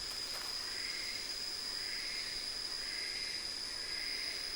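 Insects calling: a steady high-pitched buzz with softer chirps repeating about once a second.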